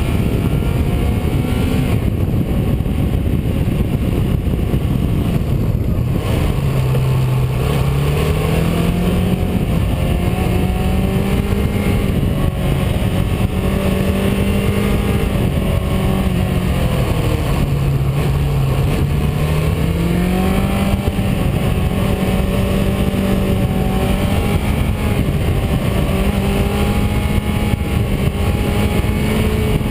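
Car engine running steadily, its pitch dropping twice, about a quarter of the way in and again past halfway, then climbing back each time as the car slows for bends and pulls away. Steady road and wind noise runs underneath.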